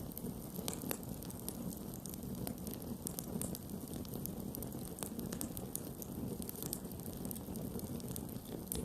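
Campfire burning with a steady low rush of flames and frequent irregular crackles and pops from the wood.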